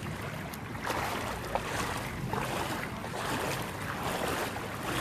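Several people wading through deep floodwater, the water sloshing and surging against their legs in repeated swishes with each stride.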